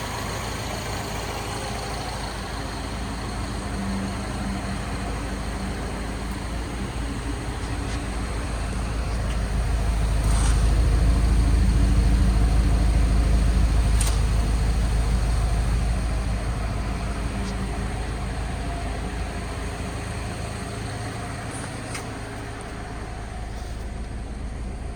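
2012 Mini Cooper's 1.6-litre four-cylinder engine running steadily, growing louder for several seconds in the middle before settling back, with a few sharp clicks.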